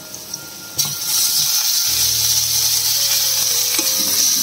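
Chopped garlic with mustard and cumin seeds sizzling in hot oil in a steel kadai and being stirred with a wooden spatula. The steady hiss of frying starts abruptly about a second in.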